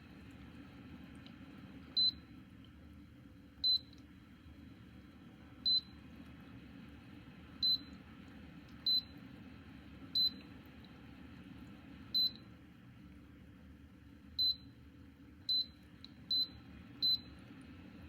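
An electronic control panel, most likely the Dreo humidifier's, beeping eleven times at uneven intervals, each beep short and high-pitched, as its buttons are pressed. Underneath is a faint, steady low hum.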